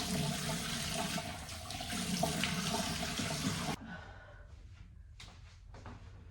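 Water running hard in a bathroom, which cuts off abruptly nearly four seconds in. Softer, broken splashing sounds follow.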